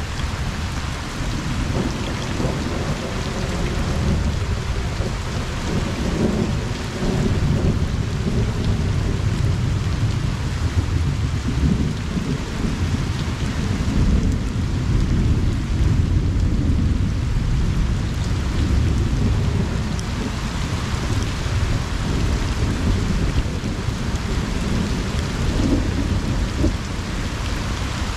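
Steady summer rain pattering down, with a long low rumble of distant thunder that swells through the middle and eases off near the end.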